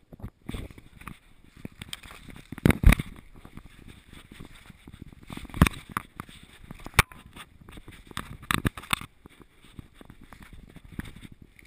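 Knocks, scuffs and rubbing from a GoPro strapped to a dog's harness as the dog moves along a dirt trail. They come at irregular moments, with the loudest knocks about three seconds in and near the middle.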